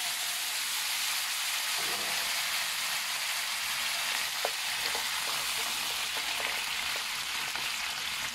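Soy-and-cooking-wine-marinated pork feet sizzling in hot oil in a wok, a steady frying hiss, with a few light taps of a wooden spatula stirring them.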